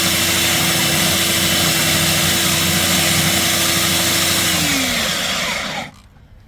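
Hilti core drill motor running steadily under load as the bit cuts. About four and a half seconds in it is switched off: its pitch falls as it spins down, and it stops about a second and a half later.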